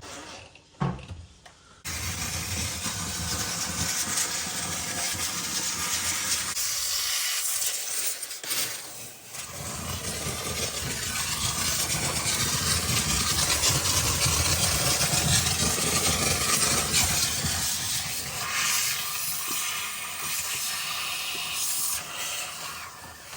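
Handheld steamer blowing a steady hiss of steam, melting ice in a refrigerator's freezer. It starts about two seconds in and eases briefly about seven seconds in before carrying on.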